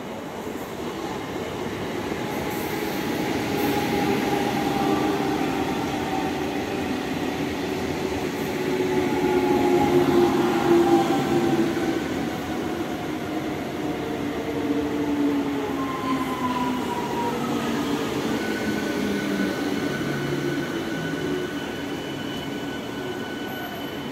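South Eastern Railway electric multiple-unit local train running past close by, its wheels and running gear rumbling on the track. It grows loudest about ten seconds in, then eases, with a motor whine slowly falling in pitch.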